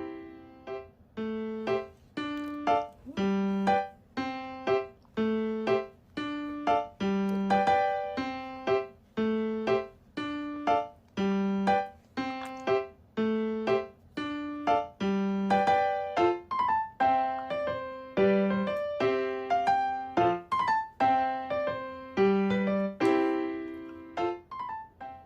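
Background piano music: a simple melody of single struck notes, each ringing and fading, at an even pace of about two notes a second.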